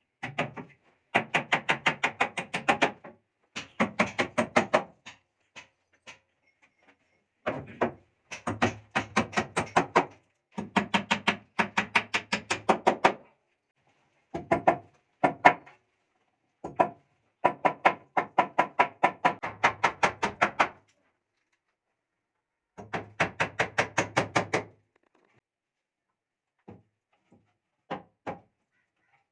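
Rapid repeated knocking strikes, about six a second, coming in bursts of one to three seconds with short pauses between.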